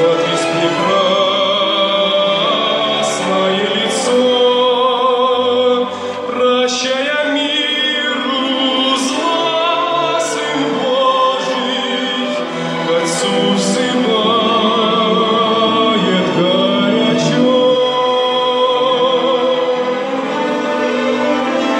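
A solo singer in operatic style holding long notes with vibrato over a chamber orchestra accompaniment.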